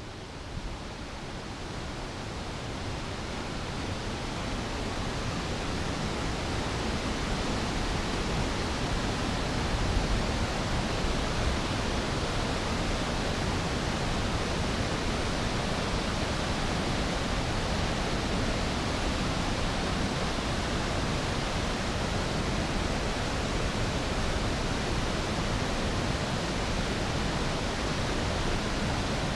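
Waterfall's rushing water, a steady even roar that grows louder over the first several seconds and then holds steady.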